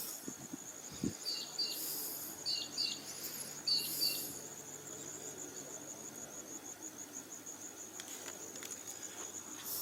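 An insect trilling steadily with a high, rapidly pulsing note. Over it, a bird gives short double chirps three times in the first four seconds.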